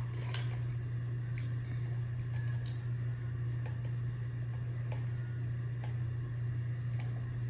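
A steady low hum with sparse, faint clicks and taps scattered over it, like small items being handled at a table.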